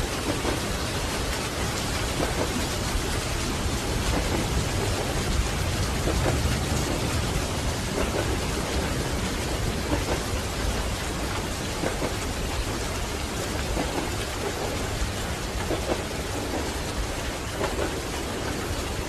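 Steady, dense rain over a continuous deep low rumble.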